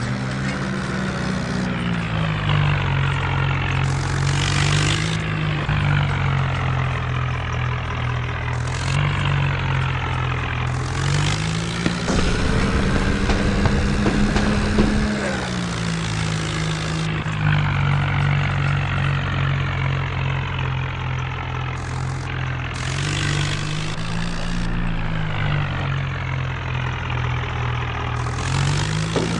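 Swaraj tractor's diesel engine running, its pitch rising and falling with the throttle and climbing highest around the middle. Bursts of hissing noise come and go several times over the engine.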